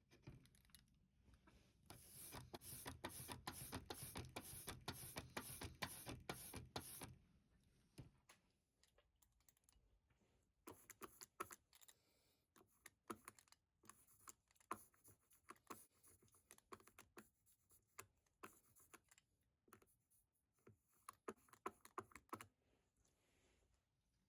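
Quiet hand work on a linocut print. A run of quick, even rubbing strokes, about two or three a second, lasts around five seconds. Then come scattered light clicks and taps.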